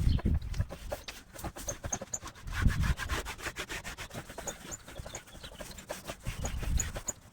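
Rubbing and scraping on a surface, with scattered clicks and knocks and a few low thumps.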